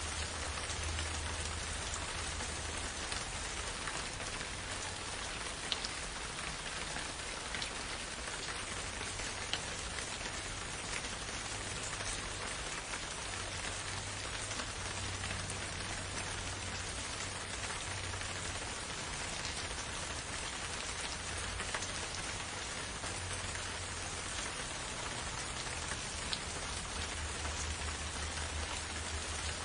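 Steady gentle rain falling, an even hiss of many drops with single louder drops ticking now and then.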